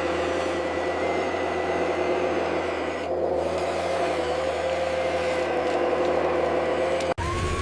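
Radio-controlled dump truck's electric motor and gears whirring steadily, a constant whine over a low hum, cut off abruptly near the end.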